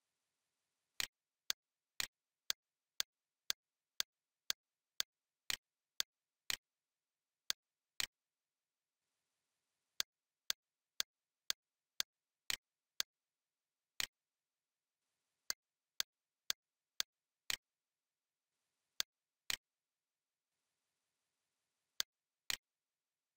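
A series of sharp, short clicks, mostly about two a second in an even beat with some beats skipped, over near silence.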